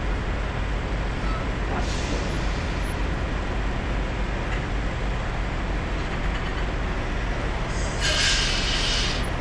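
Semi truck's diesel engine idling steadily, with a short hiss of air about two seconds in and a louder release of air from the air brakes lasting about a second and a half near the end.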